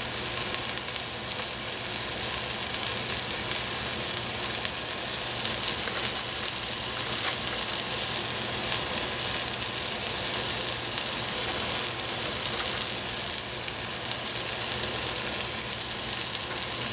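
Food frying in a pan, sizzling steadily.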